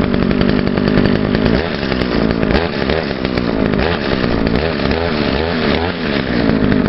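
Echo SRM-2100 string trimmer's two-stroke engine running after its first cold start of the year, choke off. From about a second and a half in until near the end its speed rises and falls several times, then it settles back to a steady run.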